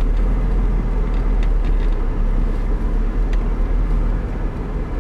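1988 Ford Fiesta Mk2 1.1 engine and road noise heard from inside the cabin: a steady low rumble as the car drives slowly on.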